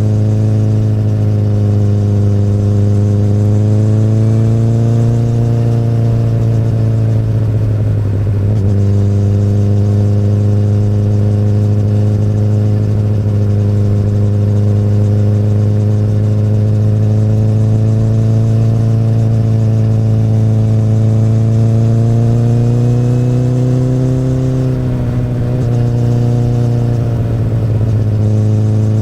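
2008 Honda CBR1000RR inline-four motorcycle running through an Akrapovic exhaust under way. The engine note rises and falls gently with the throttle, with brief breaks in it about eight seconds in and twice near the end.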